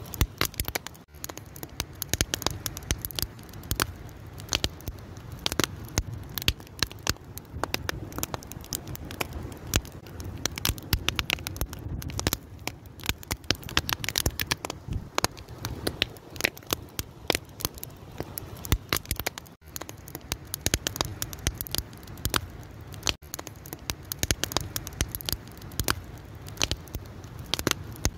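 Fire crackling steadily: many irregular sharp pops and snaps over a soft low rumble of the flames.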